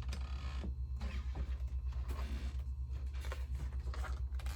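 Loose plastic Lego pieces clicking and rustling as they are sorted and moved by hand, with several sharp clicks, over a steady low pulsing hum.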